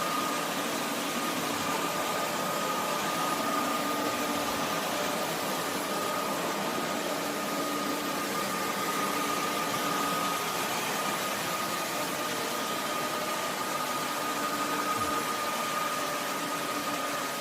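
Roborock F25 wet-dry vacuum running its self-cleaning cycle in its dock: a steady motor whir with a constant high-pitched hum over it.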